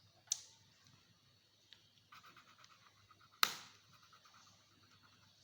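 Faint colouring on a paper worksheet: about a second of quick, even scratching strokes. There are two short sharp sounds, one near the start and a louder one about halfway through.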